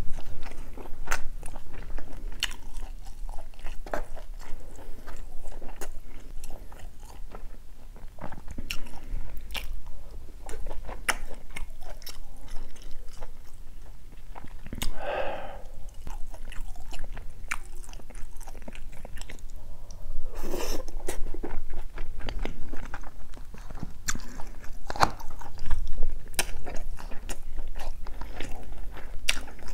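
Close-miked wet chewing and mouth clicks of a person eating gopdori-tang, a spicy stew of chicken and beef intestine with added noodles. Two brief, louder mouth sounds come about halfway through and again some five seconds later.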